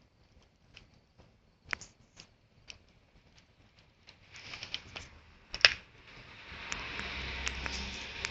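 Campfire crackling with scattered sharp pops, one louder pop a little over halfway through; from about six seconds a steady hiss joins the crackle.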